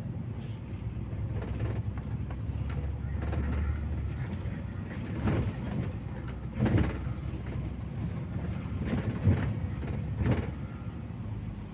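Inside a moving MAZ-215 articulated city bus: a steady low engine and road rumble, with a few sharp knocks and rattles from the bus body, the loudest about nine seconds in.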